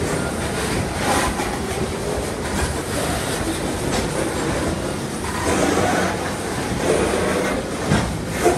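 Covered hopper cars of a freight train rolling past close by, wheels clattering over the rails, with a couple of sharper clanks near the end.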